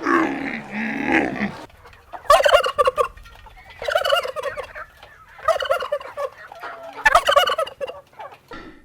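Turkey gobbling four times, each gobble a quick rattling warble under a second long, about one and a half seconds apart. Another animal call is heard in the first second and a half.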